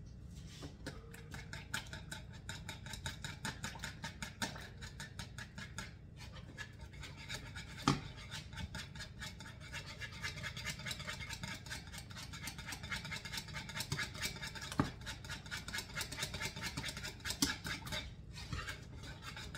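Wire whisk beating softened butter and whiskey in a bowl: a fast, steady run of scraping strokes with a few sharper knocks against the bowl. The butter is still too firm, so the blending is slow.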